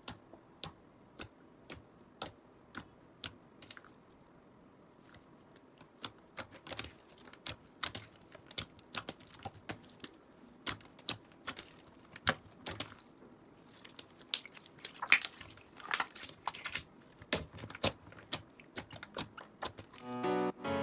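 Slime being pressed and poked, giving irregular small sharp clicks and pops, a few a second. Music comes in near the end.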